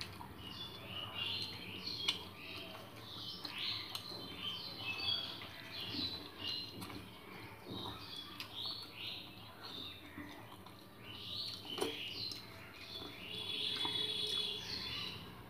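Small birds chirping over and over in short, quick, falling calls, with a couple of sharp clicks among them.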